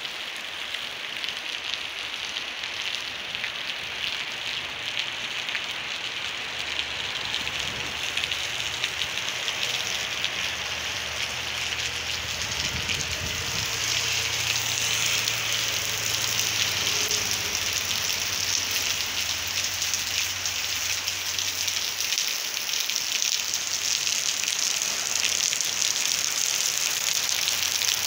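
Steady rain falling on a wet paved road and the scrub beside it, growing gradually louder.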